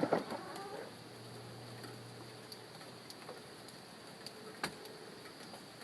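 Outdoor ambience under an overcast, rainy sky: a steady high-pitched insect drone, with a brief call at the start and a few light scattered clicks.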